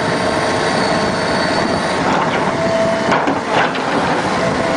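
A heavy vehicle's engine running loudly, with a faint steady whine over it.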